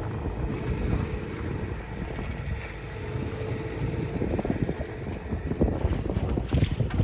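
A tour boat's motor running on a lake, heard through heavy wind buffeting the microphone; the wind gusts grow louder in the last couple of seconds.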